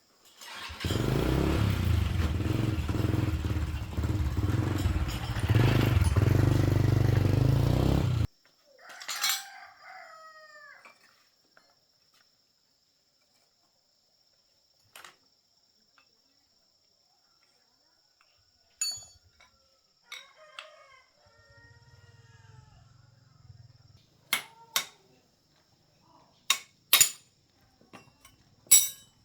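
Motorbike engine running loudly for about seven seconds, then cutting off suddenly. Afterwards a rooster crows twice, and a few sharp clicks come near the end.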